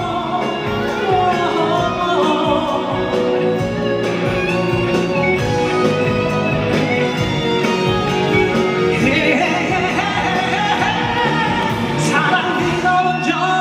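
Live pop ballad played by a band through a concert hall's sound system, in a stretch between sung lines.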